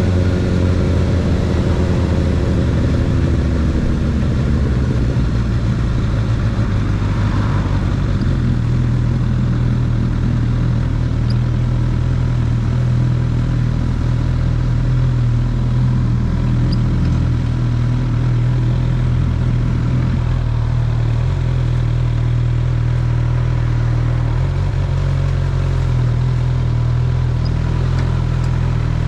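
Honda CB1000R inline-four engine with its revs falling back over the first few seconds, then idling steadily.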